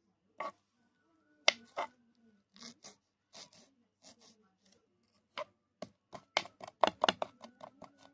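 Sharp knocks of a knife chopping on a cutting board: single strokes at first, then a quick run of about eight strokes a second near the end.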